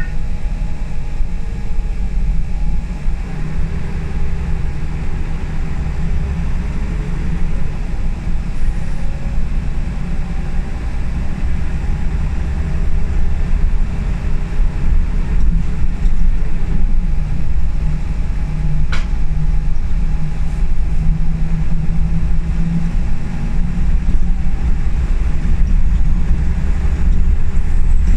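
Inside a moving Scania L94UB single-deck bus: the rear-mounted diesel engine runs with a steady low rumble over road noise, its note rising and falling a few times as the bus accelerates and shifts gear. There is a single sharp click about two-thirds of the way through.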